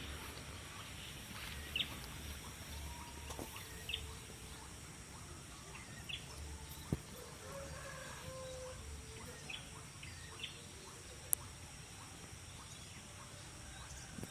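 Quiet outdoor background with a few faint, short bird chirps scattered through it and a couple of sharp little clicks.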